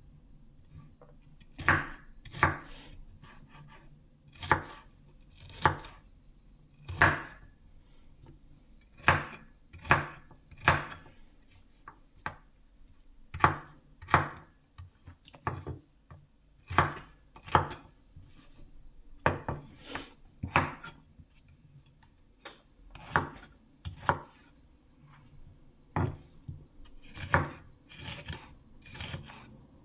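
Knife chopping on a cutting board: slow, separate strokes, often in pairs, roughly one a second.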